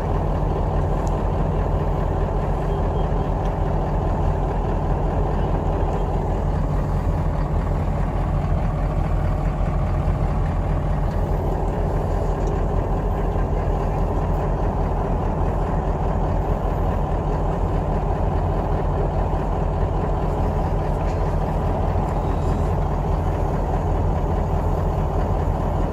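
A vehicle's engine idling steadily, a low even hum with no change in speed.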